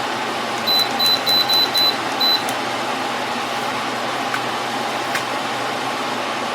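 Portable spot air conditioner running with a steady fan hum, while its control panel gives six short high beeps in quick succession about a second in, as settings are pressed. Two faint clicks follow later.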